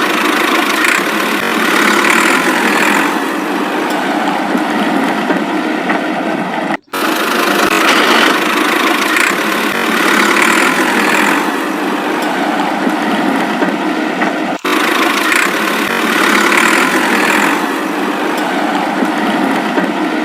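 Tractor engine sound running steadily at idle, thin and lacking low rumble, its pattern repeating about every eight seconds and broken by two very brief dropouts.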